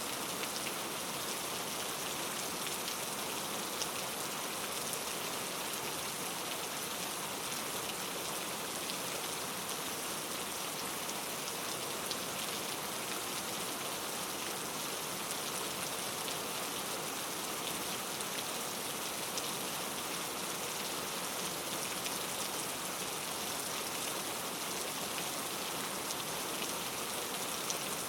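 Steady rain falling, an even hiss of many fine drops that holds unchanged throughout.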